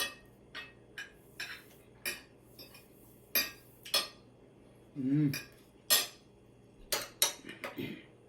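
Cutlery clinking against dishes: about a dozen separate sharp clinks and taps, spaced irregularly. A brief vocal sound about five seconds in.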